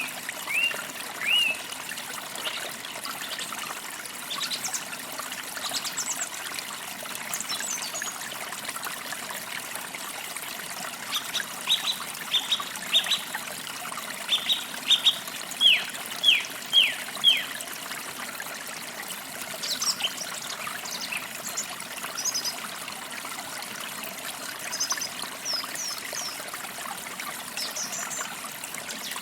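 Forest stream trickling steadily, with songbirds singing over it. A few upslurred chirps come right at the start, then a run of short notes and about five falling notes in the middle, with thin higher chirps scattered throughout.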